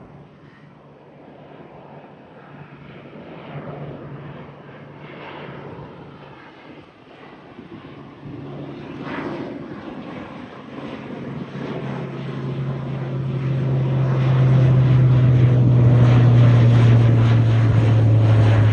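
Jet airliner passing low overhead on departure, its engine noise building to a loud steady drone over the last few seconds.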